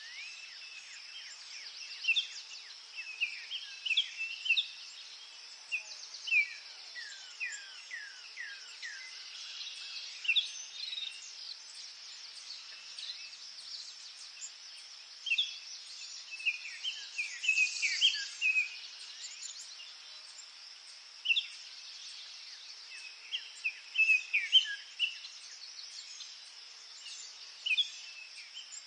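Forest birds singing: scattered short chirps and whistled calls, with a run of quick falling notes about six seconds in and busier bursts around the middle and near the end. A steady high-pitched drone runs underneath.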